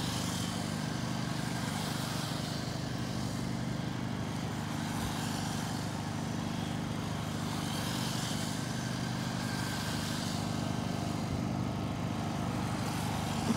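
Electric Redcat Lightning STK RC stock cars running laps, their motor and tyre noise swelling twice as cars pass, over a steady low hum.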